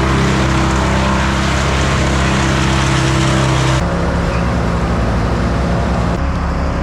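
Engine of heavy tree-work machinery running steadily at a constant speed. Its tone changes abruptly about four seconds in and again near six seconds.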